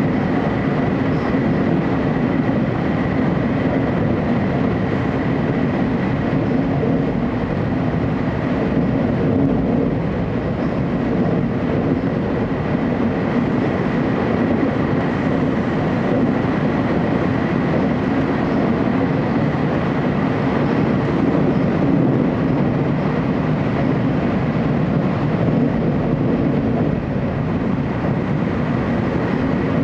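Cabin noise of a TEMU2000 Puyuma tilting electric multiple unit running at speed through the underground tunnel: a steady, even rumble with a faint high steady whine.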